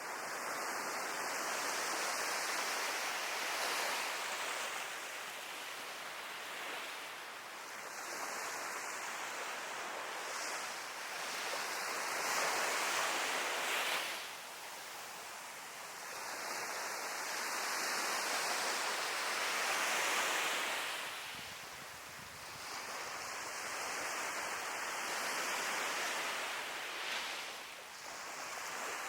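Sea waves breaking and washing on the shore, the surf swelling and falling away every few seconds.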